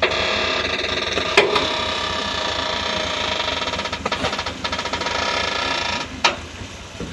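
Garbage truck machinery running with a steady, many-toned mechanical whine, broken by a few knocks. The whine stops about six seconds in.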